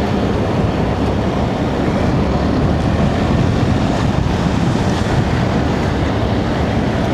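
Steady rush of wind over the microphone of a motorcycle moving at speed, with the engine running underneath.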